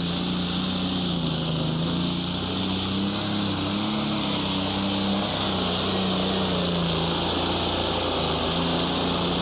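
Engine of a John Deere 4955 super stock pulling tractor, a single-turbo diesel, running loud and steady, its pitch wavering slightly up and down.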